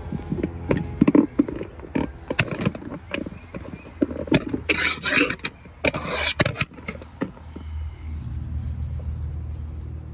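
Hand tools clinking and knocking irregularly on metal during work in a van's engine bay, over a steady low engine rumble that grows louder near the end.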